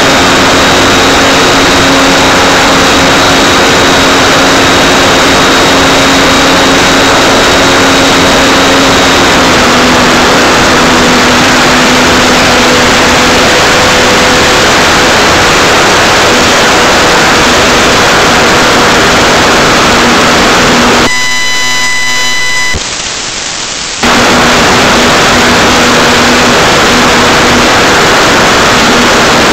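Electric motor and propeller of an Art-Tech Cessna 182 RC model plane in flight, picked up by a KeyCam 808 keychain camera on the nose as a loud, overloaded rush of wind and prop noise with a faint steady hum. About two-thirds of the way through, the noise drops out for about three seconds and a buzzing glitch takes its place.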